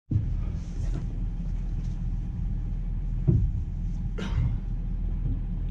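Steady low rumble of an idling vehicle engine, with a short knock about three seconds in and a brief scraping noise a second later.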